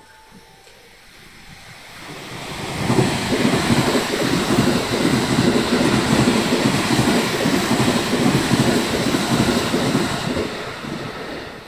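Thunderbird limited express electric train passing through the station: the rush of wheels on rail and passing cars builds over the first few seconds, stays loud and steady, then starts to fade near the end.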